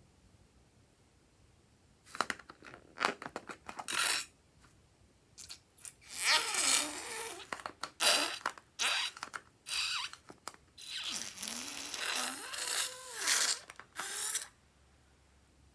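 Glossy slime being squeezed and stretched by hand, crackling and squelching in irregular bursts after about two seconds of near silence.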